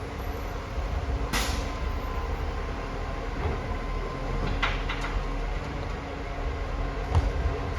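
Garbage truck's diesel engine running steadily, with a short burst of air hiss about a second in and a few sharp clunks later on.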